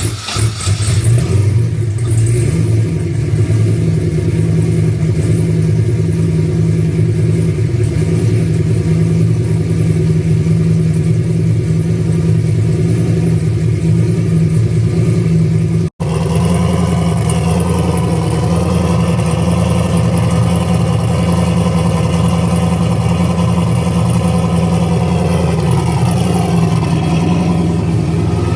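Turbocharged LS V8 running on E85, fast-idling steadily just after a below-freezing cold start. About sixteen seconds in the sound breaks off for an instant and comes back fuller.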